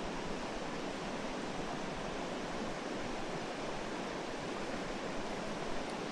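Mountain stream water rushing over rocks: a steady, even hiss with no breaks.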